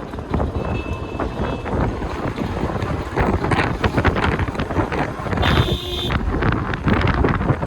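Gusty wind buffeting the microphone over the running noise of a vehicle, with a short high tone about five and a half seconds in.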